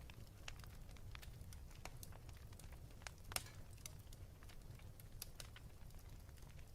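Faint wood fire crackling in a fireplace: irregular sharp pops and snaps over a steady low rumble, with one louder pop about halfway through.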